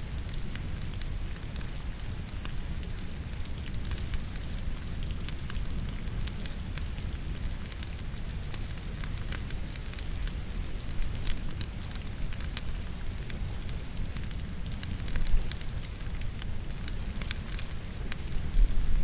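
Wood logs burning in a fireplace, crackling and popping, layered over a steady patter of rain. There is a louder pop about three-quarters of the way through and another at the very end.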